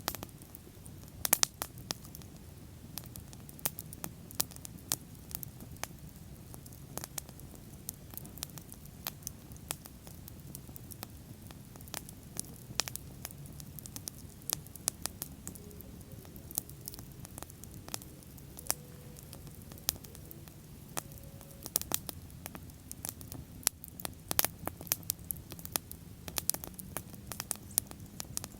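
Wood bonfire burning, with frequent irregular sharp crackles and pops over a steady low rumble of flame; the crackles come thicker near the end.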